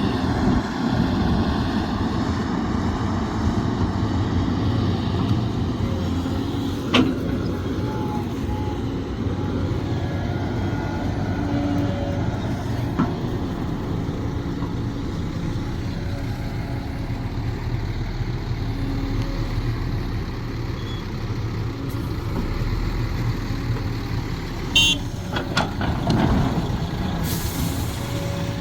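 Sumitomo SH370LHD-6 excavator's diesel engine running steadily under working load, with a sharp knock about seven seconds in and a quick run of metallic clanks and ticks near the end.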